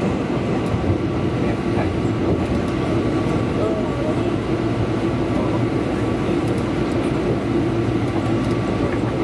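Tobu Railway electric train running, heard from inside the passenger car: a steady rumble of wheels and running gear with a steady hum over it.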